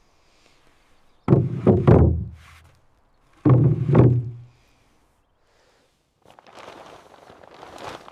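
Two bursts of heavy thudding, each a few dull knocks in quick succession with a low boom, about a second and three and a half seconds in. A quieter rustling scrape follows near the end.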